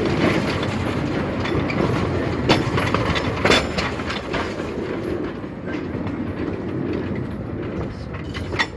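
Narrow-gauge train running along the track, wheels clattering over the rail joints, with a few sharp clanks; the sound falls away near the end.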